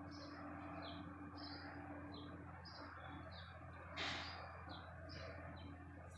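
Faint chirping of small birds: short high notes, about two a second, over a low steady hum. A brief rush of noise comes about four seconds in.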